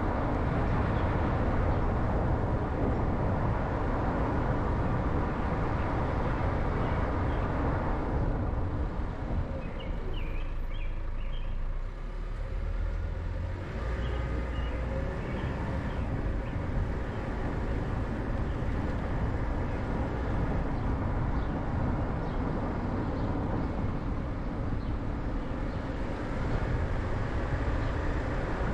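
Car being driven, with steady road and engine noise that thins out for a few seconds about ten seconds in as it slows, then builds back up.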